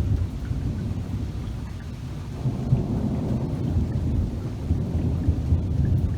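Thunder rumbling continuously, growing louder about two and a half seconds in, with rain falling.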